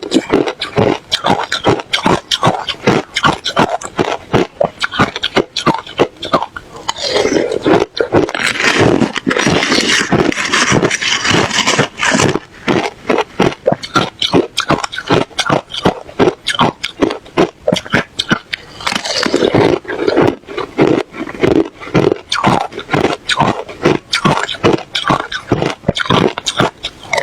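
Ice being bitten and chewed right at the microphone. It comes as rapid, loud crunches and cracks, several a second, with denser grinding stretches as the pieces are chewed down.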